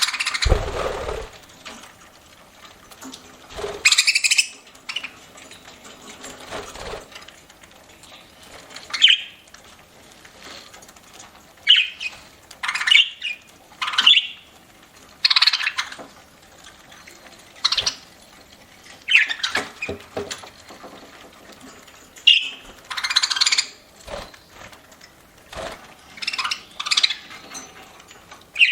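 Pet budgerigars giving short chirping calls in irregular bursts, one every second or two. A brief low bump comes right at the start.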